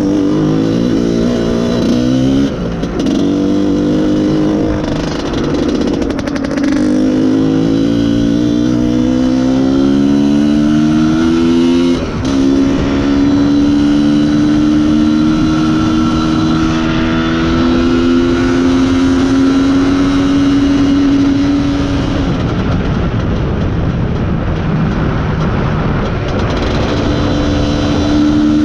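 IZh Planeta Sport's single-cylinder two-stroke engine pulling under way, its pitch climbing through the gears with short breaks at the shifts, then holding a steady cruise before easing off and picking up again near the end. This is a bike that the owner says has stopped pulling properly because of a lean mixture.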